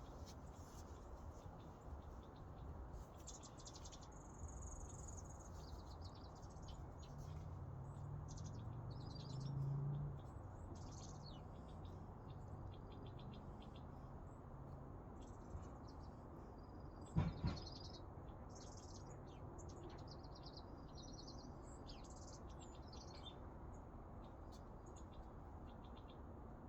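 Faint chirping and short trills of several songbirds, scattered throughout over a steady low background hum. A low rumble swells briefly about a third of the way in, and a sharp double knock, the loudest sound, comes about two-thirds of the way through.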